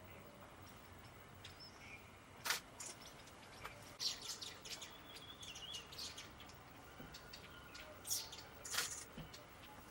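Wild birds giving short, sharp chirps and calls, scattered and irregular. The loudest come about two and a half seconds in, at four seconds, and twice near the end.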